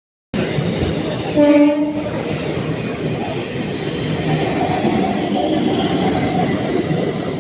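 Electric multiple unit (EMU) local train running, a steady loud rumble of wheels on track that starts abruptly, with one short horn blast about a second and a half in.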